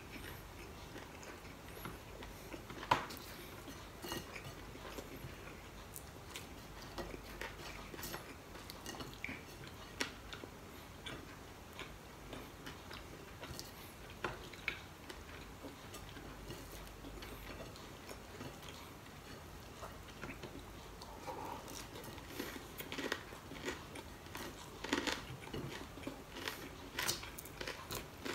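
A person quietly chewing and crunching fried dried fish with rice, with scattered small clicks and crackles of fingers picking at the food on a plate, busier near the end.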